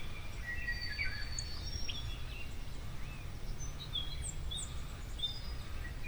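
Wild birds calling outdoors: several short whistles and chirps at irregular intervals, some sweeping down in pitch, over a steady low rumble.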